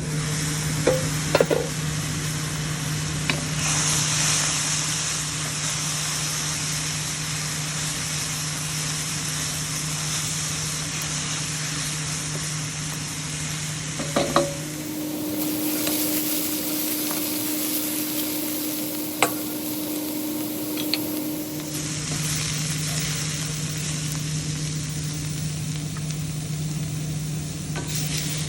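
Stir-fry sizzling in a hot pan as it is stirred, with a few sharp knocks of the utensil against the pan, over a steady low hum.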